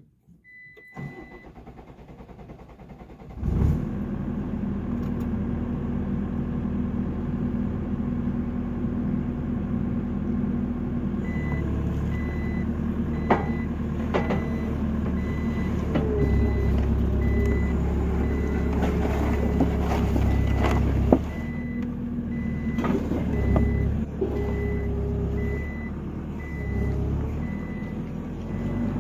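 A New Holland skid steer's diesel engine starts about three seconds in and runs, rising and falling as it works under load lifting a pallet of stone. From about a third of the way in, its backup alarm beeps steadily, and a few sharp metal clanks break through.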